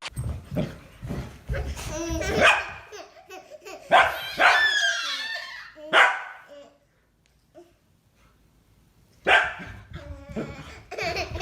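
A dog barking several times in separate loud calls, with a quiet gap of about two seconds after the middle.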